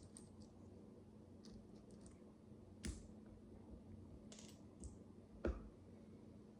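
Small plastic micro building bricks being handled and clicked together: scattered light ticks, with sharper clicks about three seconds in and again about five and a half seconds in, over a faint steady hum.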